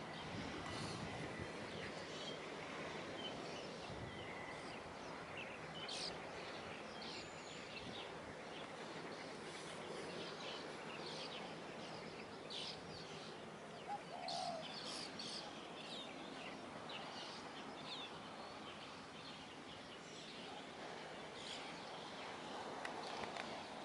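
Faint, steady outdoor background noise with many short bird chirps scattered throughout.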